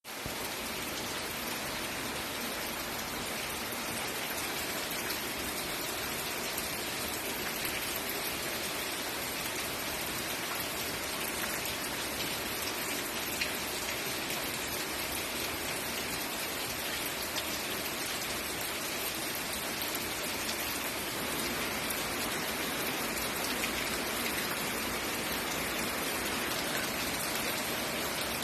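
Heavy rain falling steadily, an even hiss of drops on surfaces with scattered individual drop ticks.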